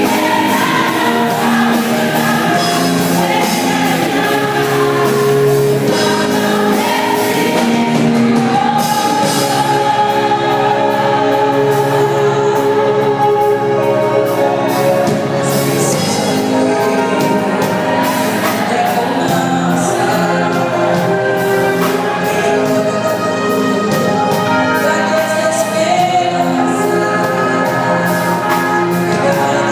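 Gospel choir singing a hymn with band accompaniment and a steady drum beat.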